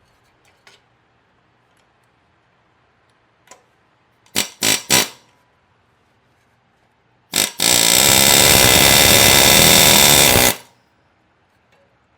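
Pneumatic air hammer on the 7.3 IDI's fan, fired in three short bursts and then a brief burst followed by a steady run of about three seconds, working to knock the fan loose.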